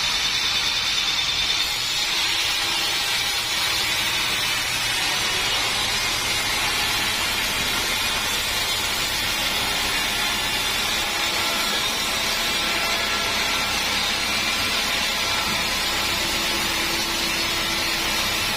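Sawmill saw running steadily through teak wood. There is a thin high tone over the noise that stops about two seconds in.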